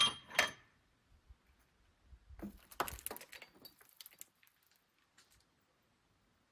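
Two sharp metal clanks half a second apart, with a brief ring, then a short run of lighter knocks and rattles a couple of seconds later, as metal parts and tools are handled.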